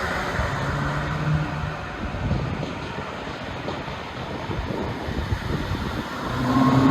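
Exhaust and engine of a Mercedes-Benz C200 (W205) turbocharged four-cylinder with a pop-and-crackle ECU tune, running with a low drone, its revs and loudness climbing near the end.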